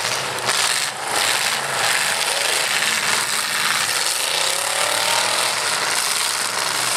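Several demolition derby trucks' engines running loud and rough, revving up and down.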